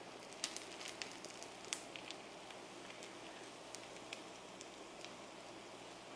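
Rice, egg and Spam patties frying in a little oil in a frying pan: a faint steady sizzle with scattered crackles and pops, busiest in the first two seconds, as the rice crust crisps.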